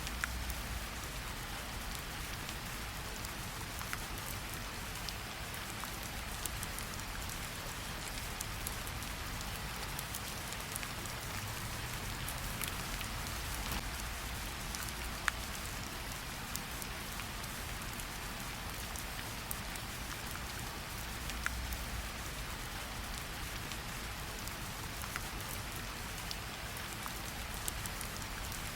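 Steady rain falling, with scattered sharp drops ticking on a hard surface and a soft low rumble that swells now and then.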